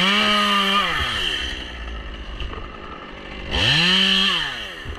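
Stihl chainsaw revved up twice to a high, steady pitch, each burst held about a second before dropping back to idle.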